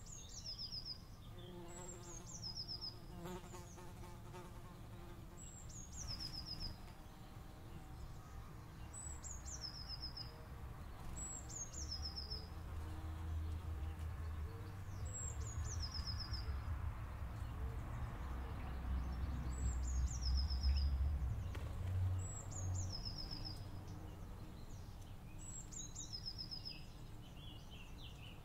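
A small bird's song: a short high phrase that falls in pitch and ends in a fast trill, repeated about every three seconds. Under it runs a low rumble that swells in the middle.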